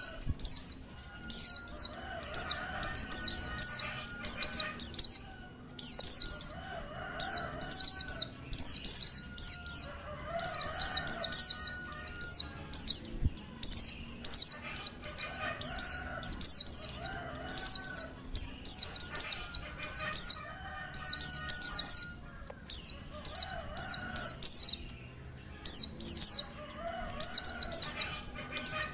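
Female white-eye (pleci) calling: quick runs of high, downward-sweeping chirps, repeated about once a second with short breaks. Fainter, lower bird calls sound behind them.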